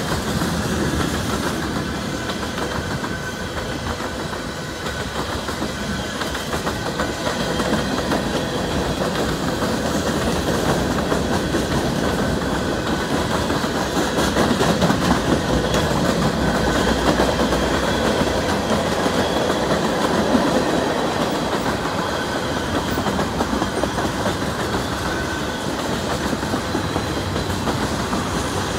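Freight cars (covered hoppers and tank cars) rolling past: a steady rumble of steel wheels on the rails with a clickety-clack of wheels over the rail joints, a little louder in the middle.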